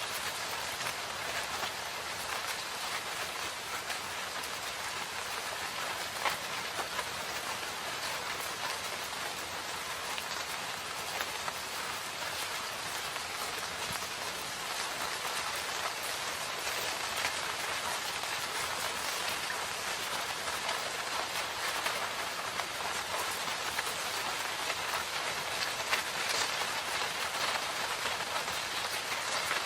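Steady rain falling in a forest, a continuous even hiss with scattered louder drops pattering on leaves and surfaces.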